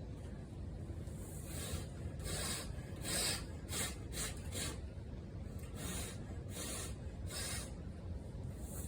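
A run of short rubbing strokes, about ten over six seconds, starting a couple of seconds in.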